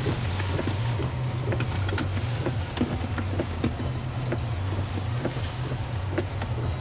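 A car driving, heard from inside the cabin: steady engine and road noise with many small scattered ticks and clicks.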